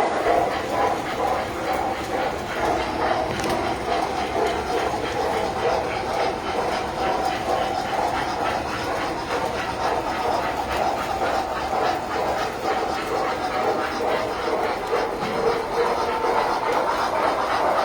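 Tinplate toy trains running on metal track: a steady hum and rattle of electric motors, gears and wheels, with a constant patter of small clicks.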